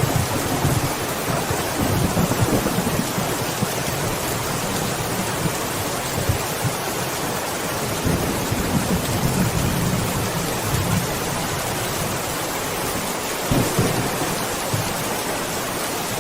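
Steady rain with low, rolling thunder rumbling underneath. The thunder swells in the first few seconds and again around the middle, then dies down, leaving mostly the rain hiss.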